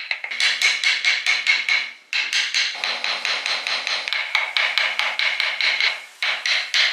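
Rapid, evenly spaced hammer blows, several a second, each with a bright metallic ring, in runs broken by two short pauses.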